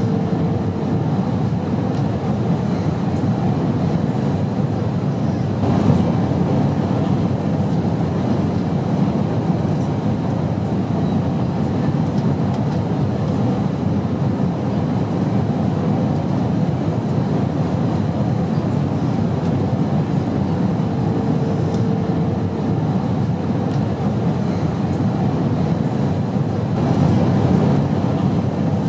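Steady, unbroken low drone of an airplane in flight, with a faint hum that rises briefly near the start and again about two-thirds of the way through.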